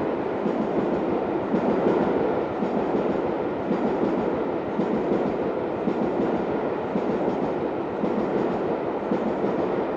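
A steam-hauled train's passenger coaches rolling past on the rails, a steady rumble and clatter of wheels over the track.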